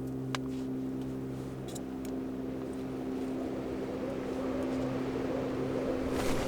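Wind gusting against a tent, building up over the last few seconds, over a steady low drone.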